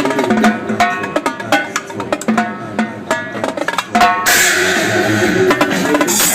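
Live Mapex drum kit with Paiste cymbals played over electronic dance music: fast drum strokes, then a cymbal crash about four seconds in that rings on for about two seconds.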